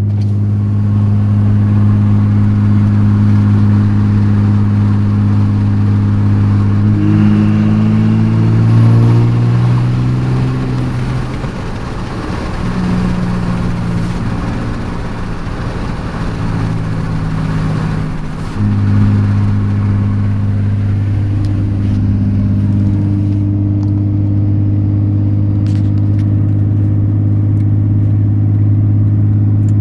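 2014 Ram's 6.7 Cummins inline-six diesel running under way with a steady low drone. About seven seconds in it rises in pitch, then eases off and wavers for several seconds before coming back on suddenly at a steady pitch near the end.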